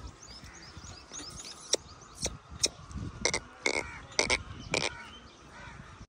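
Small birds chirping: a run of quick, high, falling chirps at first, then from about two seconds in a string of short, sharp, louder chirps, several in quick succession.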